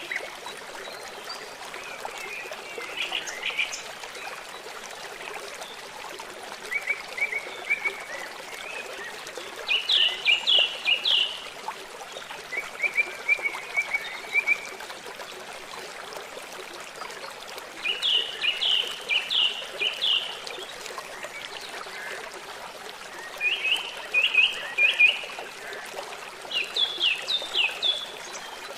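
Songbird singing in short repeated phrases of four to six quick chirping notes, a phrase every few seconds, over a steady background hiss.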